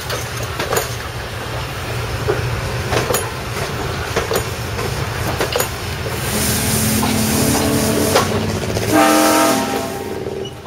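Railroad cars rolling slowly past, their wheels clicking over rail joints over a low rumble. About six seconds in, a train horn sounds a long blast, then a second shorter, higher blast with several tones near the end.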